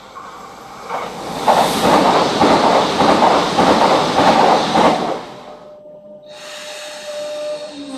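A Renfe train passing close by at speed: a loud rush of wheels on rail with a rapid rhythmic clatter. It builds about a second in and falls away after about five seconds, and a faint steady tone follows near the end.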